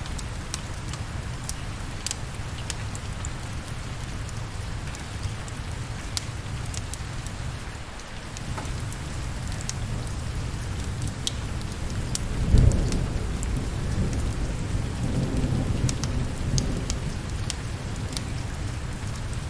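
Steady rain with scattered sharp crackles. About twelve seconds in, a clap of thunder breaks into a low rumble that rolls on for several seconds.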